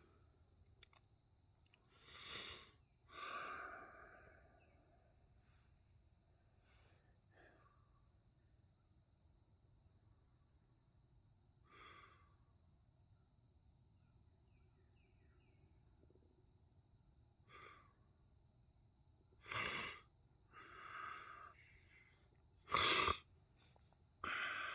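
Insects trilling steadily in a high pitch with a regular pulse about once or twice a second, with a few short breathy sounds over them, the loudest near the end.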